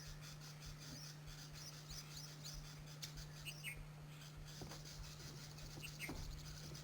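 Faint, high, repeated chirps from small birds, with a few short lower calls, over a steady low hum.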